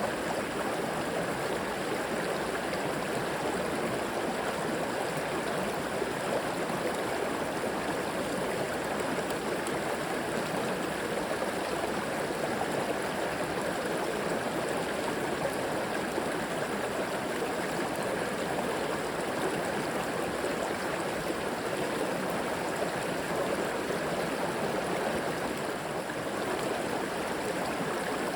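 River water flowing over rocks with a steady rushing, gurgling sound.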